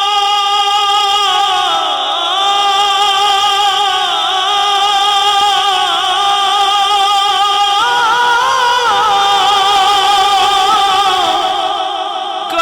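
Male naat reciter singing a long, drawn-out melismatic passage, the pitch wavering and stepping down, then up, then down again.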